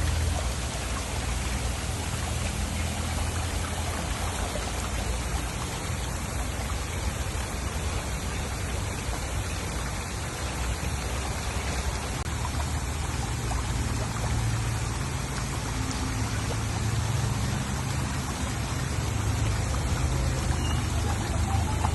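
Steady running and trickling water of a koi pond, an even splashing wash with a low rumble underneath.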